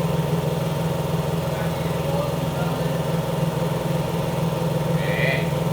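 A motor or engine running steadily at an even pitch, with a short higher-pitched sound about five seconds in.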